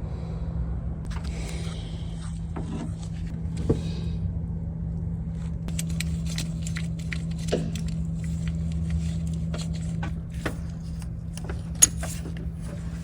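Hand tools and metal engine parts clicking and clinking over a steady low hum, with sharper knocks about 4, 7.5 and 12 seconds in.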